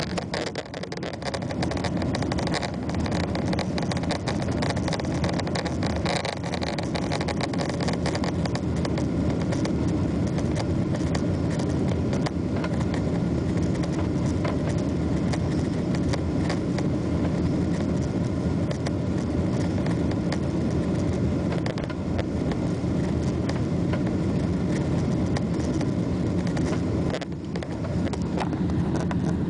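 Steady cabin noise of a Boeing 777-300 airliner, its engines and the rushing air heard from inside the passenger cabin as it climbs, dipping briefly near the end.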